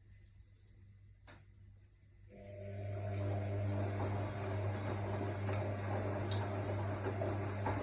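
AEG Lavamat L62850L washing machine: a single click about a second in, then a little after two seconds in the drum motor starts and turns the drum with a steady hum.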